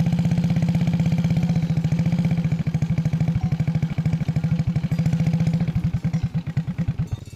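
A small engine running at a steady, fast beat, then slowing and cutting out just before the end.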